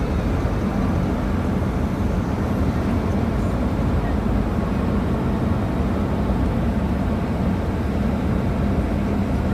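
Heavy diesel engine running steadily, a low even hum with no revving.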